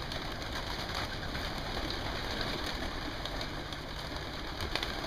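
Young racing pigeons coming out of their loft, with a low coo about three seconds in and a few faint clicks near the end, over steady background noise.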